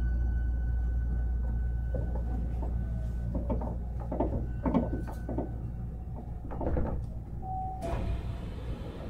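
Inside a Hankyu 1300 series commuter train: a steady low hum from the train, then a run of knocks and clunks like sliding doors being worked. A short beep comes near the end, followed by a sudden hiss of air.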